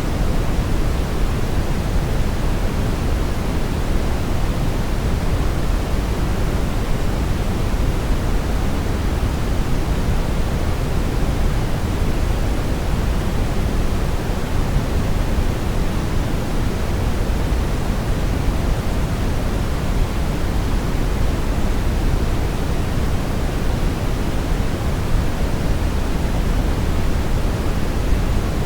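Steady brown noise: a smooth, unbroken hiss weighted toward deep low frequencies, like a distant rushing roar, with no events or changes.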